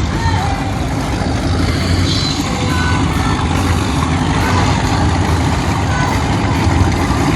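An engine running steadily at idle, a continuous low rumble, with faint voices behind it.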